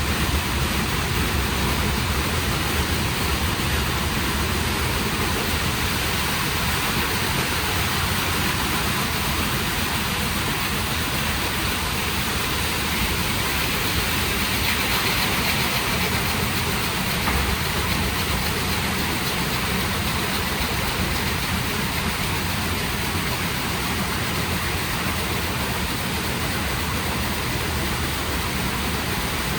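WashTec SoftCare² rollover car wash gantry at work: a steady rush of water and machine noise with no breaks.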